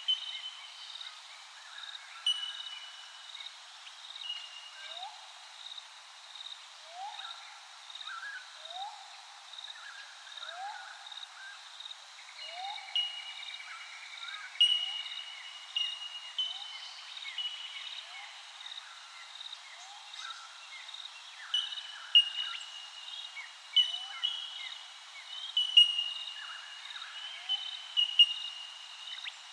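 Several wild Australian birds calling at once: short rising notes repeating every second or two, and clear whistled notes higher up, the loudest of them near the end, over a steady pulsing high-pitched tone.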